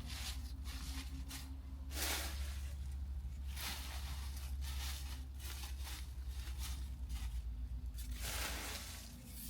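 Several bursts of rustling, handling noise, the loudest about two seconds in and near the end, over a steady low hum.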